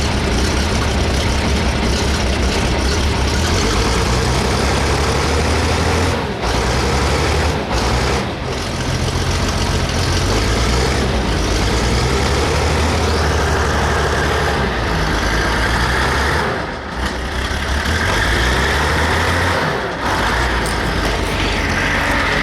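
Diesel engine of a 1976 International 3850 wheel loader running just after a hard cold start, with the glow plugs held on to keep it going. It runs unevenly, dipping briefly in level several times.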